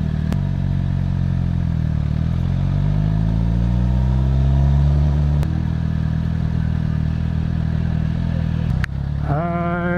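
Motorcycle engine pulling away slowly in traffic: the engine note climbs for a few seconds, drops abruptly about five seconds in, then runs on steadily at low revs. There are a couple of sharp clicks.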